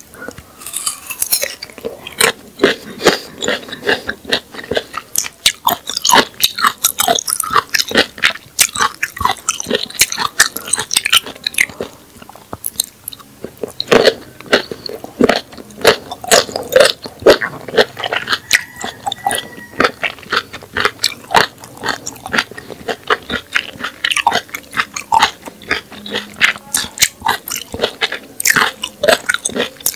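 Close-miked biting and chewing of raw rabbit-ear (prickly pear) cactus pad: a steady run of crisp crunches and clicks.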